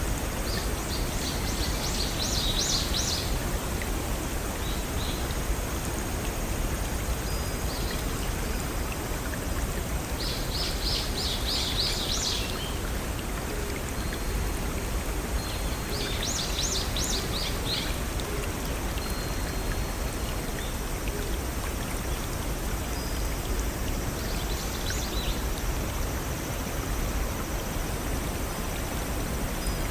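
Steady rushing water of a small waterfall or brook. A songbird repeats a short, rapid, high song phrase four times, about every six to seven seconds.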